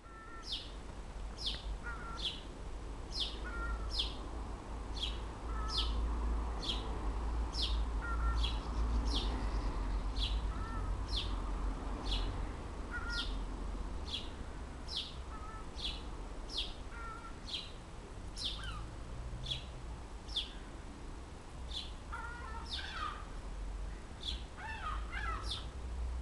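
An animal's short, high-pitched squeaks, each falling in pitch, repeated evenly about one and a half times a second, with a low wind-like rumble underneath.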